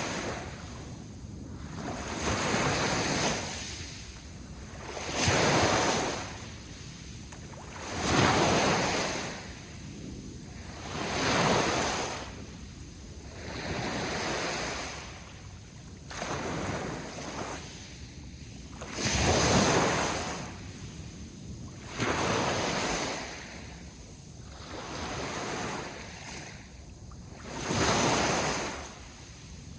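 Sea waves washing onto the shore, the surf swelling and falling away about every three seconds, with some wind on the microphone.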